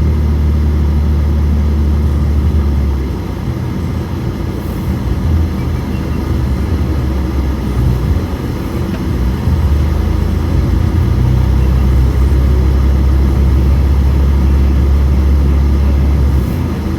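Car engine and road noise droning inside the moving car's cabin. The low drone eases off about three seconds in and builds again around ten seconds.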